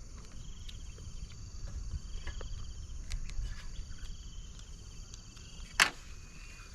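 Insects trilling in repeated pulsing bursts of about a second and a half each, over a steady high buzz. A few small clicks, and one sharp knock near the end.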